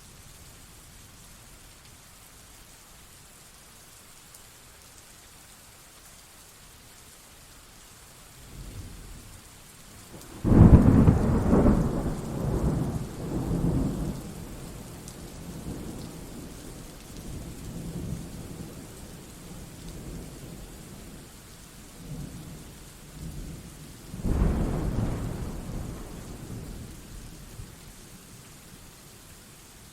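Thunderstorm with steady rain: a loud thunderclap about ten seconds in rolls and rumbles for several seconds, and a second, weaker clap with rumble comes about twenty-four seconds in, over a constant hiss of rain.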